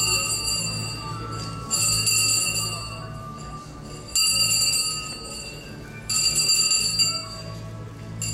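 A school handbell rung in short bouts, each one starting abruptly and ringing on for a second or two, over background music. This is the ceremonial 'last bell' marking the end of school for the graduates.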